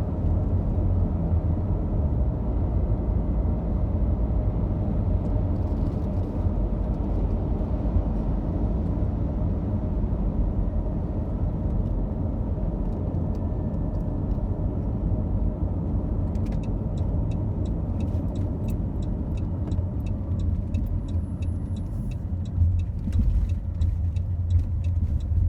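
Steady low road and engine rumble inside a minivan cruising on a highway. About two-thirds of the way through, a regular light ticking of roughly two a second starts up over the rumble.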